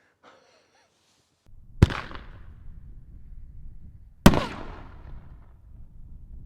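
Two sharp firework bangs from a consumer single-shot aerial shell, about two and a half seconds apart, each trailing off in a rumble that is longer after the second, over a low steady outdoor background.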